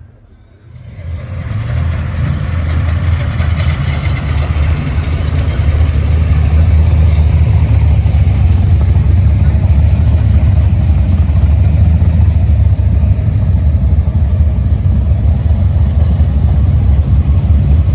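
Supercharged V8 engine of a Holden Monaro GTS starting up about a second in, then running steadily, loud and deep.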